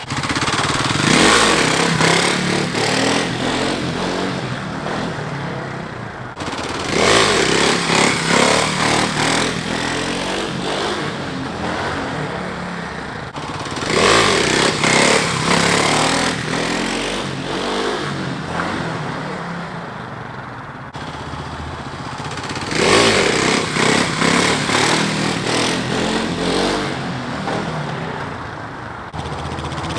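Kawasaki KLX 300 dual sport's single-cylinder four-stroke engine revving hard as the bike launches for second-gear wheelies. There are four surges, roughly every seven seconds, each starting suddenly and trailing off.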